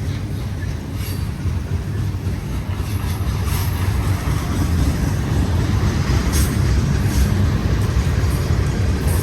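Union Pacific manifest freight train's cars rolling past: a steady low rumble of steel wheels on rail that grows slightly louder, with a few brief high squeals from the wheels.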